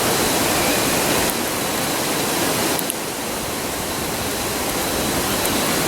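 A river rushing, a steady roar. A few faint crackles from a campfire tick over it.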